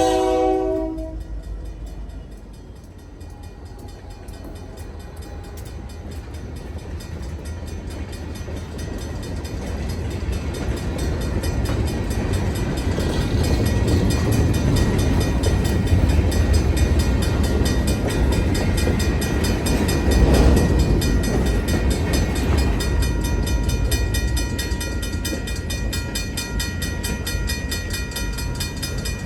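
Union Pacific freight train: the tail of a locomotive horn blast cuts off about half a second in, then the train's low rumble and rail noise grow louder over about ten seconds and stay loud as it comes by.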